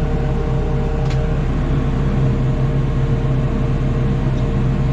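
Engine of heavy lifting equipment running at a steady idle, a constant low hum.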